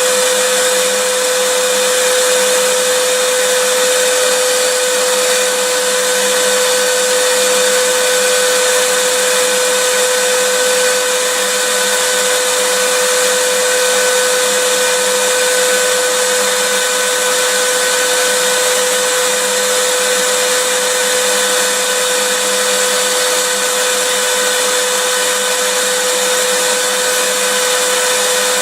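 Vacuum cleaner running steadily and unbroken, a loud even whoosh of air with a steady hum on top.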